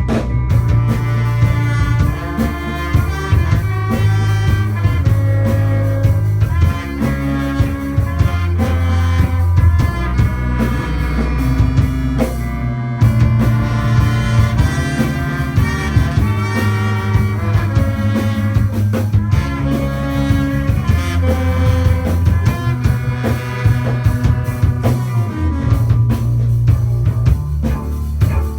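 Instrumental band playing live: drum kit, bass guitar, electric guitar and synthesizer under a horn section of saxophone, trombone and trumpet, in a rock groove. The drums drop out briefly about halfway through.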